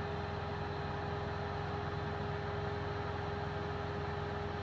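Steady low hum of an idling engine heard inside a truck's cab, with a thin steady whine running over it.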